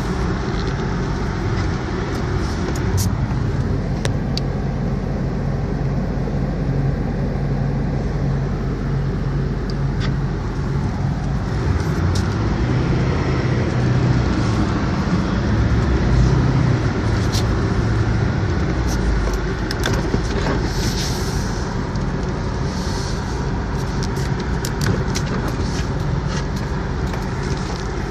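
A vehicle driving through snow: a steady low engine drone with road and tyre noise, growing a little louder in the middle. Scattered light clicks and ticks come through, more often in the second half.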